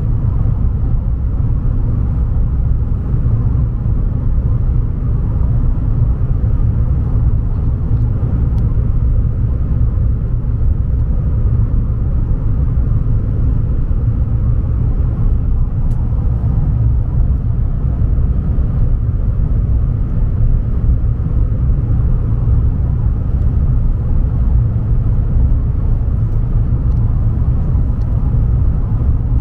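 Steady low rumble of a high-speed passenger train in motion, heard from inside the carriage.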